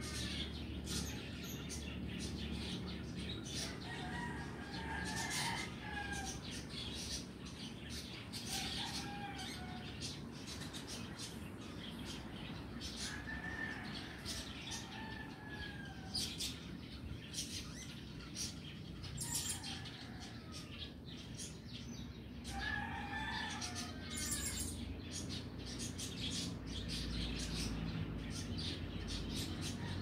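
Birds calling outdoors: short, curved calls every few seconds, with many quick high chirps between them, over a steady low background rumble.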